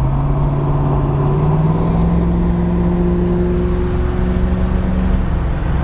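Built 502 cubic-inch big-block V8 of a car under way, running with a steady drone. Its pitch rises about a second and a half in, then holds.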